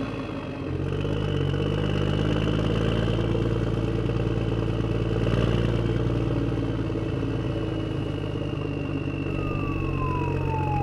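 Car engine sound effect running steadily, a low even drone with a faint high whine. Near the end a single tone falls in pitch.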